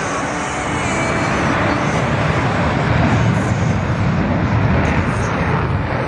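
F-35A fighter's Pratt & Whitney F135 jet engine at takeoff power, a loud rumbling roar that grows louder about halfway through.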